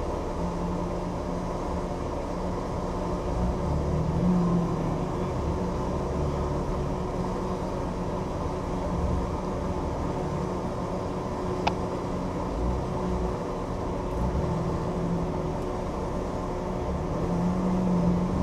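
Engine idling steadily, heard through the hood it sits under, with a low hum that swells briefly several times. One sharp tick comes about twelve seconds in.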